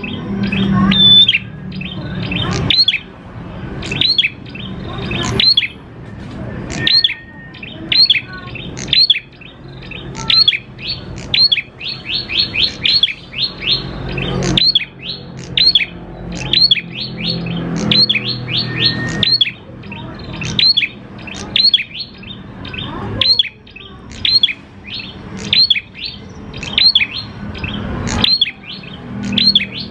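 Prenjak klawu (prinia) singing: a long, unbroken run of sharp high chirps, several a second and bunched into rapid bursts, over a low steady hum.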